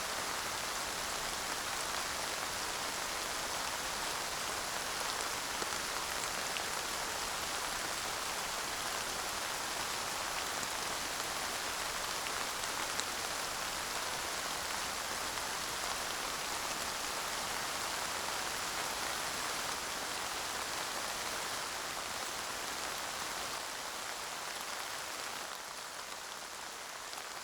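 Steady light rain falling, a continuous hiss with scattered drop ticks. It fades slightly over the last few seconds.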